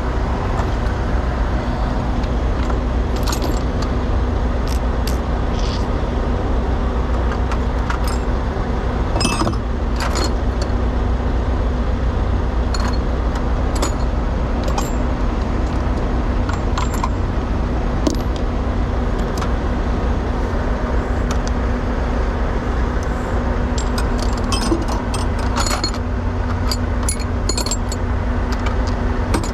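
Mack truck's diesel engine idling steadily, with scattered metallic clinks and rattles of hand tools and sockets being handled.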